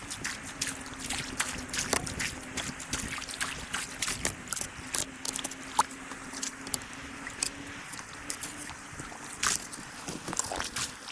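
Water trickling and splashing, with many small irregular clicks and knocks, over a faint steady hum.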